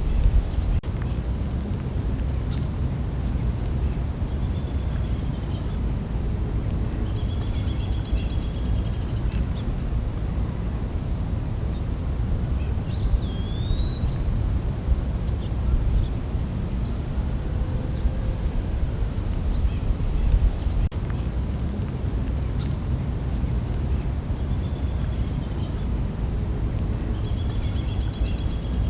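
Night-time forest insect chorus: a steady high-pitched drone with trains of rapid, evenly spaced cricket chirps. Over it come several repeated high trilling calls and a single short whistle that rises and falls, with a constant low rumble underneath.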